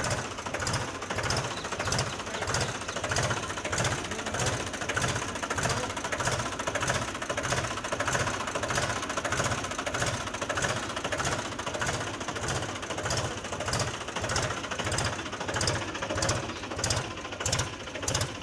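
Mahindra tractor's diesel engine running steadily, with a regular low thudding pulse a few times a second.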